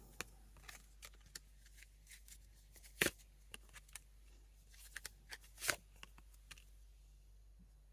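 Tarot cards being handled and laid out: scattered soft clicks and flicks of card stock, the sharpest about three seconds in and again near six seconds.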